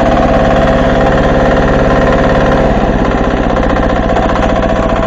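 Diesel engine of an MB2 walk-behind tractor running steadily under load while ploughing, its pitch dropping slightly about three seconds in.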